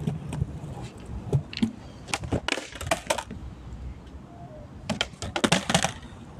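Clusters of sharp clicks and rattling, one about two seconds in and another about five seconds in, with scattered single clicks between, over a low rumble.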